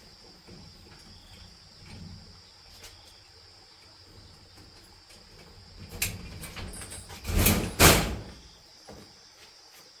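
Insects chirring steadily in one high, even tone. About six seconds in, a loud rough scraping noise of something being handled starts and peaks twice in quick succession before dying away.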